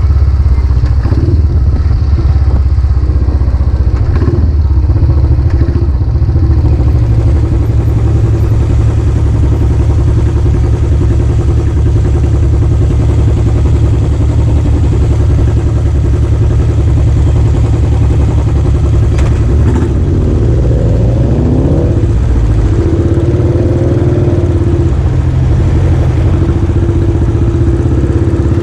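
Royal Enfield Classic 500's single-cylinder engine running under way through a newly fitted aftermarket exhaust silencer, at a steady pace. Past the middle the revs drop and climb again a couple of times.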